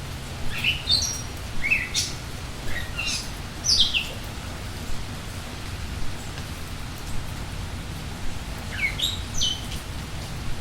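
Steady rain with a songbird singing short phrases of quick, high notes that slide downward: several phrases in the first four seconds, then one more near the end.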